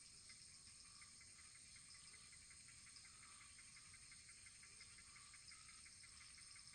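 Faint insect chorus, crickets chirping: a steady high trill with short chirps repeating evenly several times a second.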